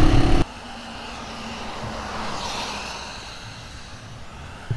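A Yamaha TW200's single-cylinder engine running for the first half second, then an abrupt cut to a much quieter even outdoor hiss that swells and fades in the middle, like a vehicle passing at a distance.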